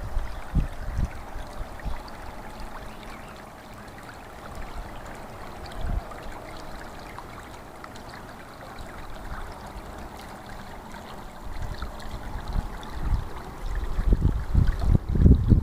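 Running water, a steady stream-like flow, with low rumbling buffets that come and go, strongest near the end.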